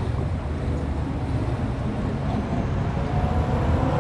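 Steady low rumble of car engines running, with wind noise on the microphone.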